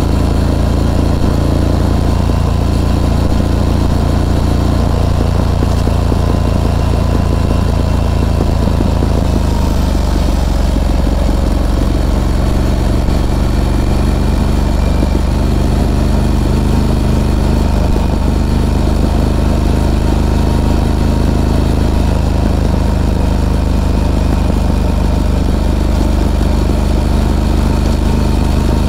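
Harley-Davidson Pan America's liquid-cooled Revolution Max 1250 V-twin running steadily, its note shifting about ten seconds in and then holding steady again.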